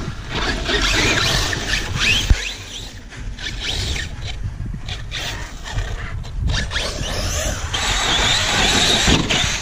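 Brushless electric motors of an Arrma Kraton 6S and a Traxxas X-Maxx 8S RC monster truck whining, rising and falling in pitch with the throttle, over tyre and sand noise. A sharp thump about two seconds in.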